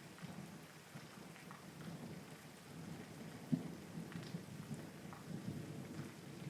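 Steady rain falling, with low rumbling thunder that swells and fades. There is one short sharp crack about halfway through.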